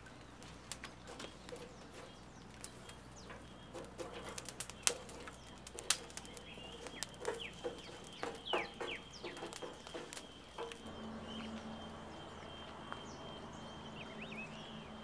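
Birds, likely domestic fowl, making short calls and flapping amid scattered sharp clicks and scratching; a thin steady high whine runs through the second half, and a low steady hum comes in about two-thirds of the way through.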